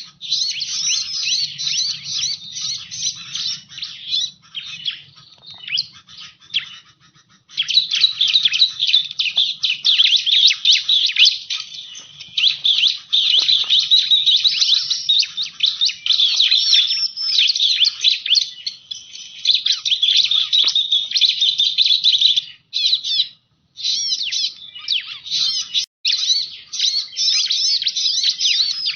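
Bar-winged prinia (ciblek) song: a dense, continuous run of rapid high chirps and trills, broken by a few short pauses.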